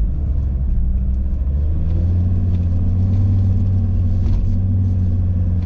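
A car's 2.4-litre engine running steadily, a low drone with road noise, heard from inside the cabin; the engine note firms up about two seconds in.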